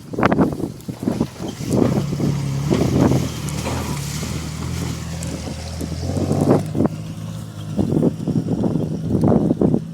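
Jeep engine running steadily at low revs while the vehicle crawls over rough trail ground, with frequent irregular knocks and thumps from the body and suspension.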